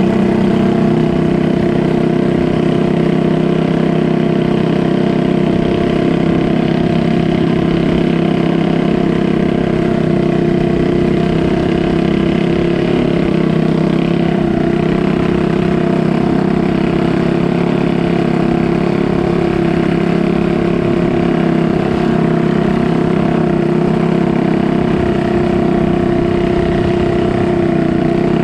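Motorboat engine running steadily at an even speed, a constant drone with no revving or change in pitch.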